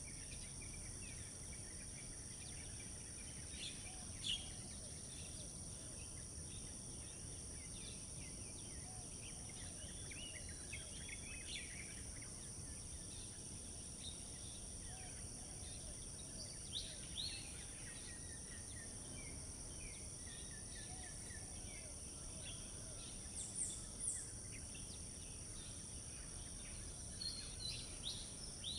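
Small birds giving short, scattered chirps every few seconds, a few louder ones near the end, over a steady high-pitched insect drone and low outdoor background noise.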